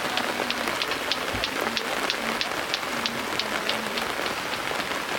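Steady rain falling, with a regular run of short, high-pitched ticks, about three or four a second, over it.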